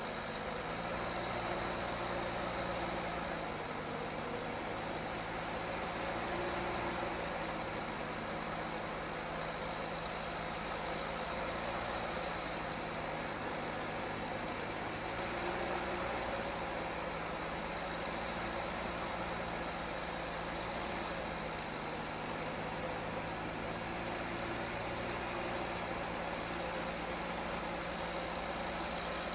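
Heavy vehicle engine running steadily, its level swelling slightly every few seconds.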